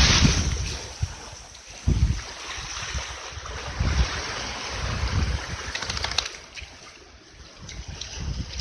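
Wind buffeting the microphone in irregular gusts, over a steady rushing hiss.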